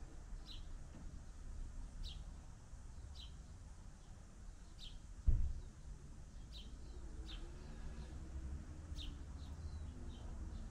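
A bird calling with short, high chirps that drop in pitch, roughly once a second, over a steady low rumble. A single dull thump comes about five seconds in.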